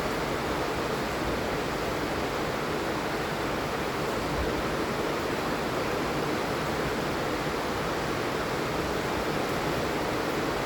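Steady heavy rain falling, a dense even hiss of rain with no separate drops or other sounds standing out.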